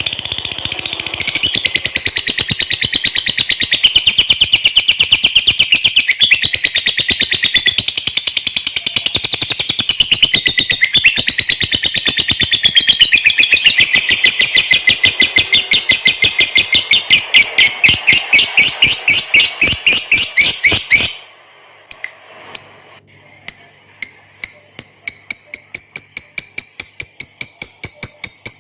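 Lovebird singing a long ngekek: a loud, rapid, unbroken high chattering trill for about twenty seconds. It breaks off, then starts again as separate shrill notes that come faster and faster toward the end.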